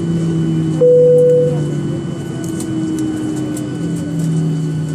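Steady hum inside the cabin of a Boeing 737-800 on the ground after landing. About a second in, a single electronic cabin tone sounds for under a second, with light scattered clicks throughout.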